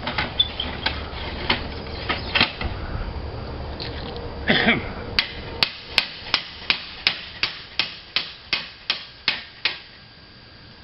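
Hammer strikes on slate: a few scattered knocks, then a quick, even run of about a dozen taps, roughly three a second, growing fainter before stopping near the end.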